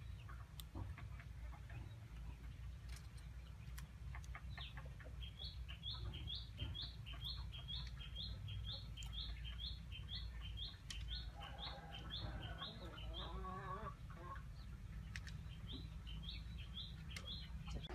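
A bird calling a long series of short, high, rising notes, about two a second, pausing briefly and starting up again near the end. Partway through, a lower wavering call, like a hen clucking, joins in, and a few light clicks come in the first few seconds.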